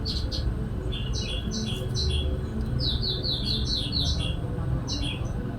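High, short bird chirps repeated in a steady series of about three a second, with a quicker run of notes about three seconds in, over a steady low rumble.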